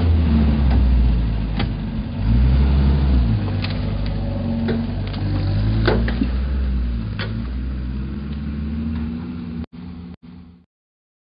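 Four-by-four's engine running and revving, its pitch stepping up and down, with scattered clicks and knocks; it cuts off about a second before the end.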